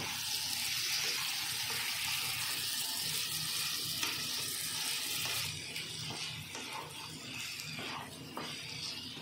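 Potato wedges sizzling as they fry in oil and spice masala in a non-stick pan, stirred with a wooden spatula. A steady hiss that drops off about five and a half seconds in, leaving a softer sizzle with scraping strokes of the spatula.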